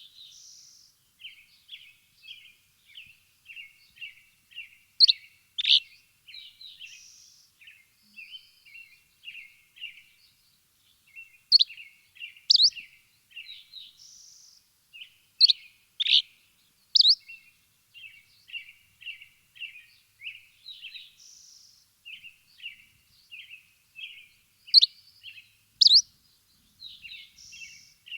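Birds chirping: steady runs of quick, short, high chirps, broken every few seconds by louder, sharp, very high call notes, often two or three in close succession.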